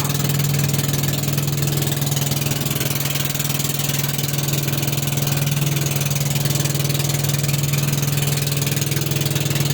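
Boat engine running steadily at an unchanging speed, a constant low drone with a fast, even beat.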